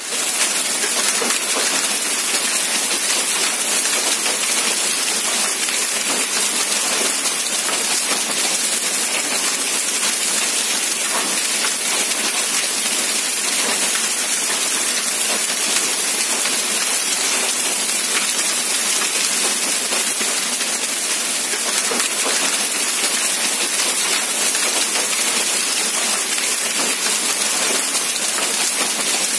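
Heavy rain falling steadily on a corrugated sheet roof, with water pouring off the roof edge in streams.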